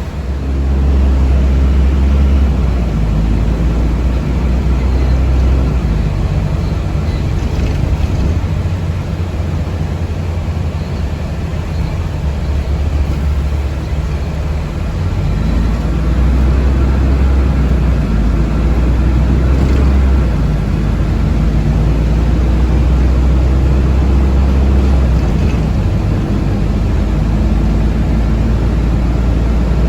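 Inside a moving city bus or trolleybus: a steady low rumble of the vehicle and road, swelling and easing several times as it travels.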